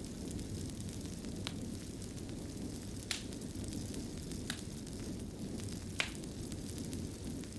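Wood fire burning in a fireplace: a steady low rush of flame with four sharp crackles spread a second or so apart.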